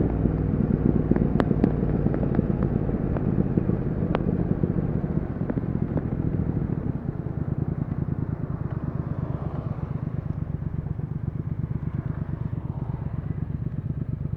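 Triumph Speed Twin 1200's parallel-twin engine running, with a few sharp clicks in the first seconds. Its level then eases off about five to seven seconds in, and it settles into a steady, evenly pulsing low-revving beat.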